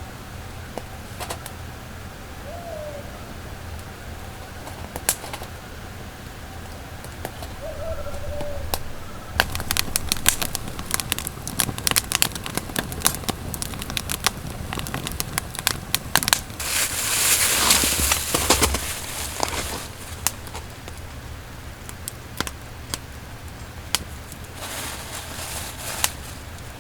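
Firewood crackling in a small fire, irregular snaps that come thick and fast from about nine seconds in until near the end, with a brief swell of rustling noise about two-thirds through. Two short, low bird calls sound in the first nine seconds.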